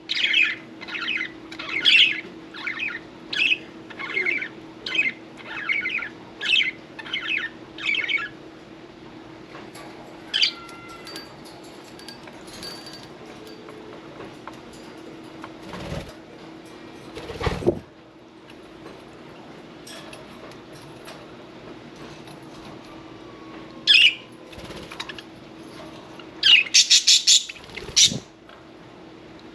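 Budgerigars calling in a run of sharp chirps about twice a second for the first eight seconds or so, with single calls later and another quick burst of chirps near the end. In the middle, two brief rustling flutters of wings. A steady low hum runs underneath.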